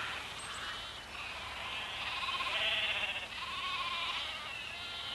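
Domestic hens calling from their nests: a string of drawn-out, pitched squawks, loudest about midway through.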